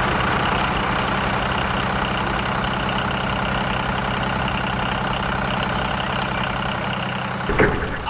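Tractor engine running steadily at a low idle-like pace, stopping about seven and a half seconds in.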